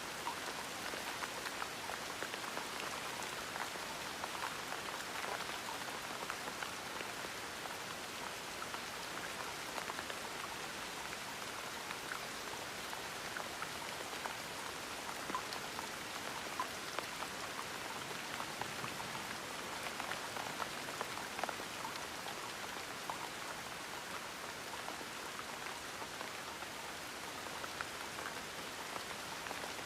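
Steady gentle rain falling, an even hiss with many small scattered drop ticks.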